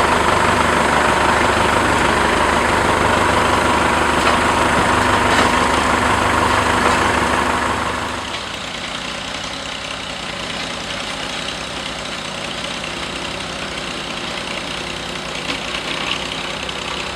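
Diesel engine of heavy construction equipment running, loud for about the first half and then dropping to a lower, steadier level.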